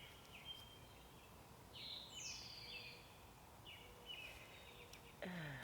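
Faint birdsong: short repeated chirping phrases, with a brighter, higher phrase about two seconds in.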